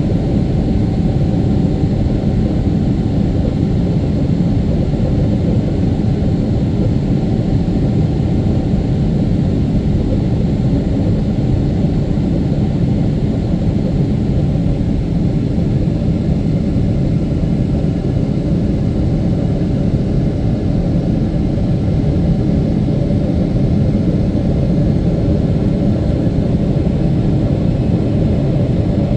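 Airliner's jet engines and rushing air heard from inside the cabin: a steady, loud rumble with a few faint steady tones above it.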